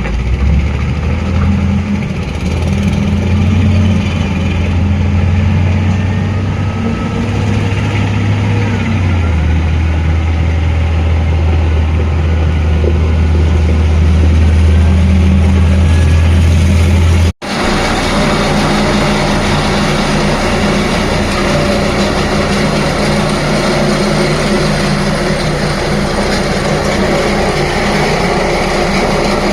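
Heavy engine of an ACE road roller running steadily at work. Its low note steps down in pitch about nine seconds in; after a sudden break about seventeen seconds in, a different, steady engine sound follows.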